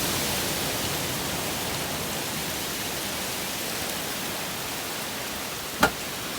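Heavy rain pouring steadily, an even hiss, with one sharp knock near the end.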